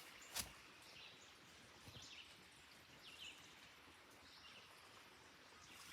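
Quiet outdoor background with a few faint, short bird chirps about once a second, and a single sharp knock about half a second in.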